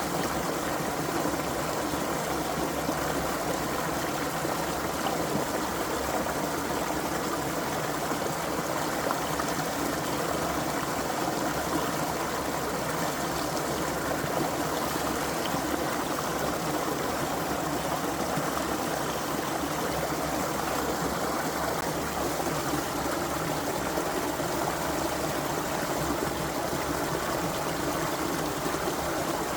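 A shallow creek flowing steadily over stones, an even rushing and babbling of water.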